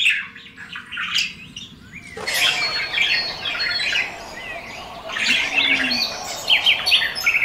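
Several birds chirping and twittering in many short, overlapping calls, growing denser about two seconds in.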